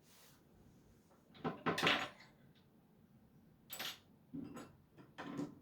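Small hard objects clinking and knocking, a handful of separate short sounds; the loudest cluster comes about two seconds in.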